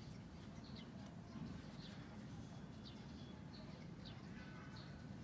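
A bird chirping faintly in the background: short high chirps, repeating roughly once or twice a second, over a low steady hum.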